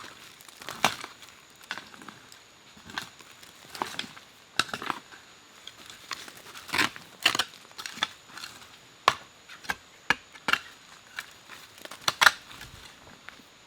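Irregular sharp knocks and cracks of wood being chopped or broken by hand, roughly one or two strokes a second with uneven gaps.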